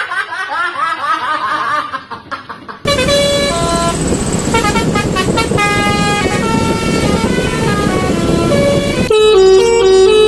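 A Basuri 'telolet' multi-tone bus horn playing a melody of held, stepped notes. Before it comes a quick run of rising chirping tones, and near the end a louder, quicker tune takes over.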